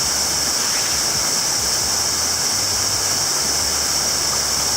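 Waterfall rushing steadily, a cascade of about 30 feet running fast with recent rain.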